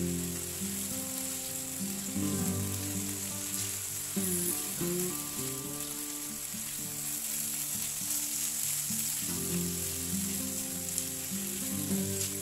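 Chicken, onion, scallion and red chili sizzling in a hot oiled pan as they are stir-fried and tossed with a spatula. Soft background music with sustained notes plays underneath.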